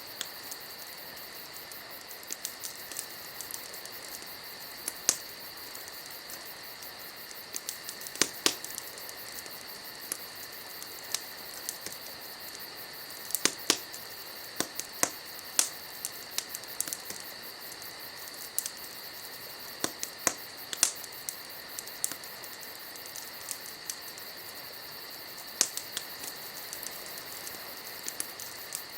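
Wood fire crackling: irregular sharp pops and snaps, sometimes in quick clusters, over a steady hiss.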